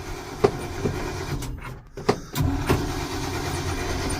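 Starter cranking the cold engine of a 1971 Ford C600 cab-over truck, choke out and primed with starting fluid, without it catching. The cranking breaks off briefly about two seconds in, then starts again.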